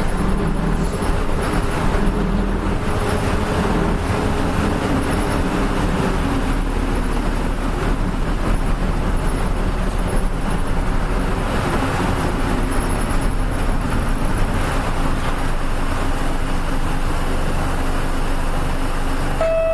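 Diesel engine of a Nishitetsu KL-UA452MAN bus running steadily, heard from inside the cabin, with a short electronic beep near the end.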